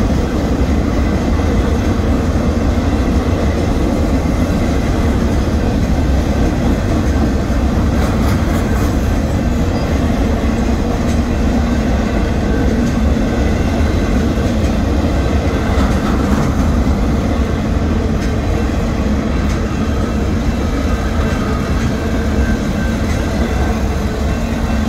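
Union Pacific mixed freight train's boxcars rolling past at a grade crossing, with steady wheel-on-rail noise and rattle. The sound eases slightly near the end as the last cars go by.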